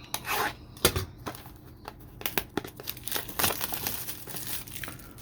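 Plastic card packaging being torn open and crinkled by hand, in irregular rustles with sharp crackles.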